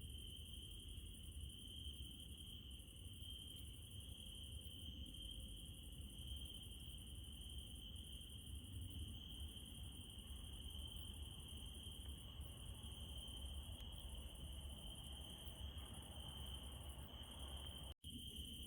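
Crickets trilling steadily in one continuous high chirring, over a faint low rumble. The sound drops out for an instant near the end.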